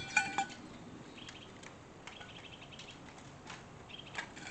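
Faint, scattered bird chirps in the background, with one louder, brief high chirp just after the start.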